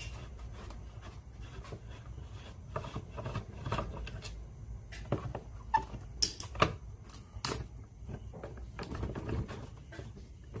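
Handling noise during repair work: small clicks, taps and rubbing of tools and small parts, with a few sharp clicks in the middle, over a steady low hum.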